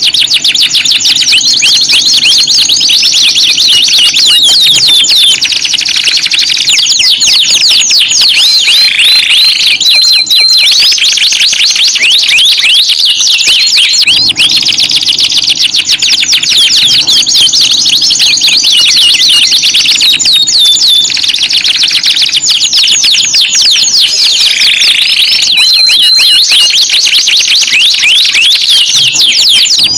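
Domestic canary song: loud, continuous fast trills and rolls with quick chirping notes and short sliding whistles, high-pitched throughout.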